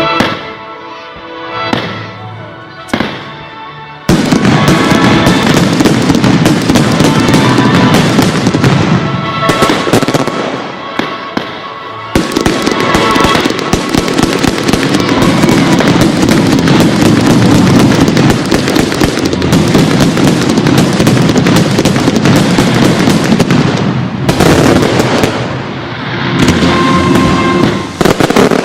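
Fireworks display going off over show music: a few separate pops at first, then about four seconds in a loud, dense barrage of bursts and crackle sets in and keeps going, easing briefly twice before picking up again.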